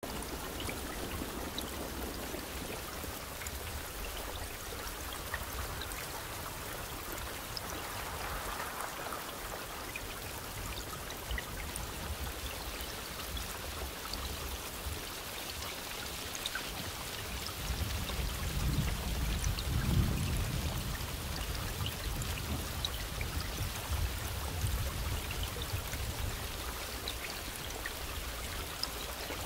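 Steady rain falling, an even hiss with scattered drop ticks. About two-thirds of the way through, a low roll of thunder swells, peaks and fades away.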